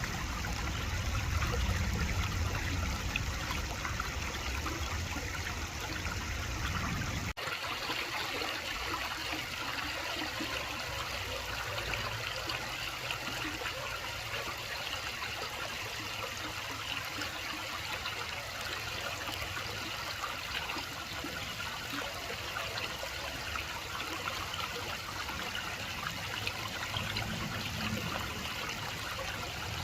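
Running water, a steady rush and trickle. About seven seconds in the sound changes abruptly as a low rumble drops away, leaving the higher hiss of the water.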